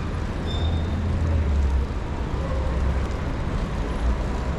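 City street traffic: passing motor vehicles with a steady low rumble that swells about a second in.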